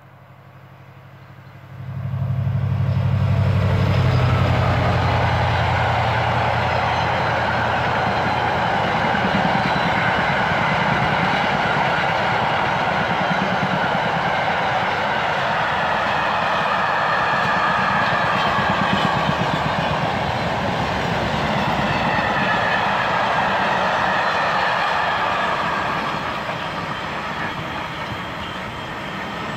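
A train passing on the main line: it arrives abruptly about two seconds in with a deep engine note from the front, then a long, steady rush of wheels on rail as the rest of the train goes by, easing slightly near the end.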